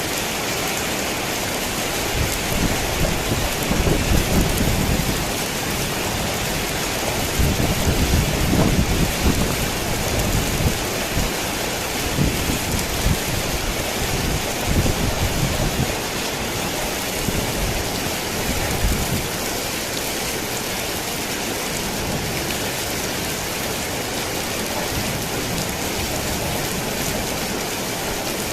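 Steady heavy rain drumming on a thin tin roof, with thunder rumbling in several rolling waves from about two seconds in until past the middle, then only the rain.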